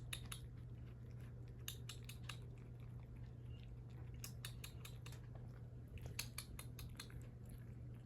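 Cats chewing and crunching food, an irregular string of soft clicks, over a low steady hum.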